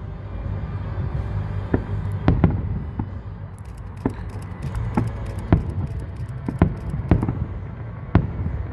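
Aerial fireworks display: about a dozen sharp booms of bursting shells, a fraction of a second to a second apart, over a steady low rumble. A fast crackle runs from about three and a half seconds in to about seven seconds.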